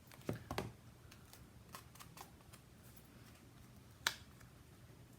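Small clicks and taps of card pieces being handled and pressed down on a craft mat: a quick cluster at the start, a few light ticks, then one sharp tap about four seconds in.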